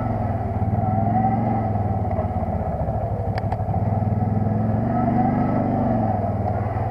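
ATV engine running under way, its pitch rising and falling with the throttle. Two faint clicks about halfway through.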